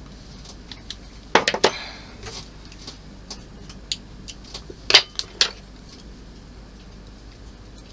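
Small hard model parts being handled on a work surface: sharp clicks and light clattering knocks, a short flurry about a second and a half in and another about five seconds in, with small ticks between.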